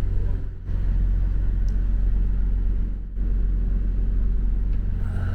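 Hire cruiser's inboard engine running steadily, a low droning hum heard from inside the boat's cabin, dropping out briefly twice.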